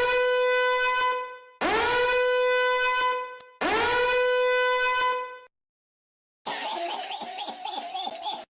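A brassy horn-like tone blown three times, each blast about two seconds long with a quick upward swoop into a steady pitch. About two seconds before the end comes a rougher, wavering buzz lasting about two seconds.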